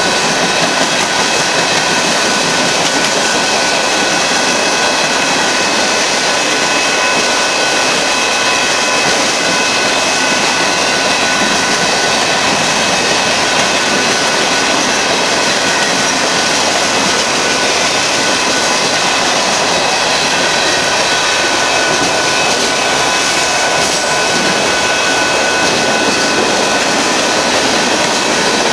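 Mixed freight cars of a manifest train rolling past at trackside: steady wheel-on-rail noise, with a few thin, high-pitched steady tones held over it.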